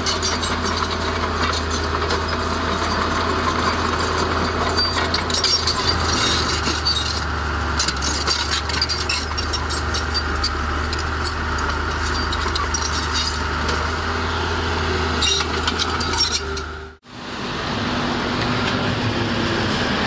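Diesel engine of heavy earthmoving machinery running steadily under work, with a constant clatter of metal clinks and knocks over it. About seventeen seconds in the sound cuts out for an instant and comes back with a slightly different mix.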